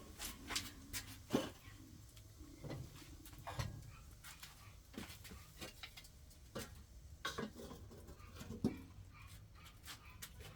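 Scattered light clicks and knocks at irregular intervals, a few heavier ones among them, over a faint low hum.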